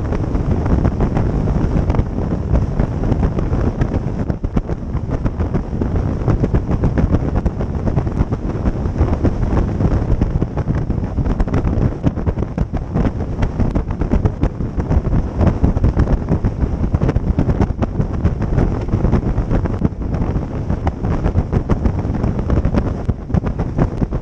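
Wind buffeting the microphone on a moving motorboat, over the steady run of the boat's engine, with many short thumps throughout.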